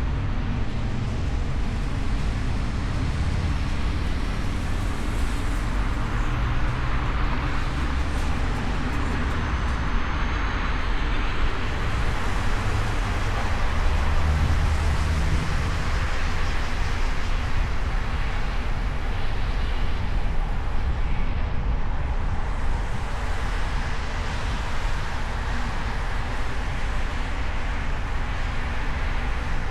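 Steady road noise from a car driving on city streets: engine and tyre rumble with passing traffic, swelling a little in the middle.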